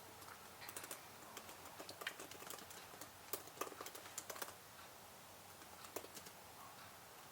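Computer keyboard typing: a quick run of soft key clicks that stops about four and a half seconds in, with one more key press near the end.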